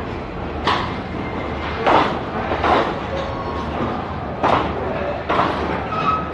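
Background voices of people talking over a steady low rumble, with several short, loud bursts of sound spread through it.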